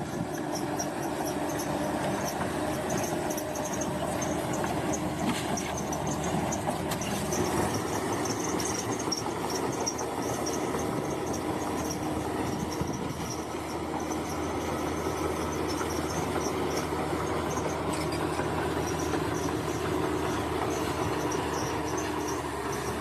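Crawler bulldozer's diesel engine running steadily at work, with high-pitched squeaking from the steel tracks and a few knocks.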